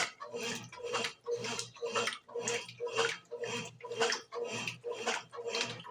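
Brastemp BWG11 washing machine agitating a load of bedding and towels: water sloshing in strokes about twice a second, with a motor hum that pulses with each stroke.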